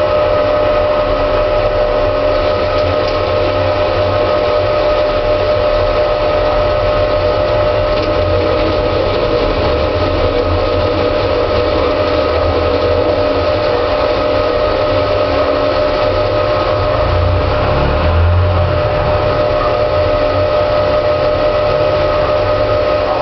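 Headman CK6130 CNC lathe running steadily: a constant machine whine over a low hum, with a brief deeper rumble about three-quarters of the way through.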